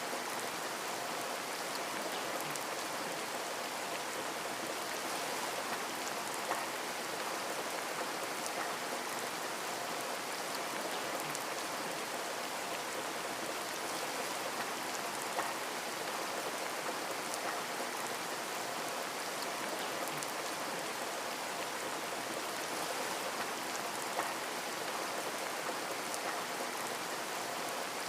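Steady rain falling on a window pane: an even hiss with small drop ticks scattered through it.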